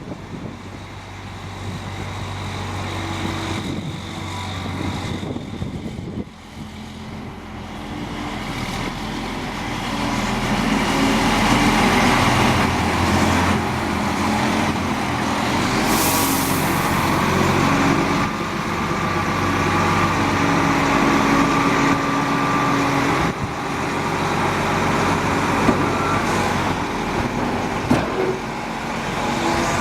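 Diesel engine of a 2000 International 2554 plow truck running steadily, growing louder about ten seconds in. A brief hiss comes about halfway through.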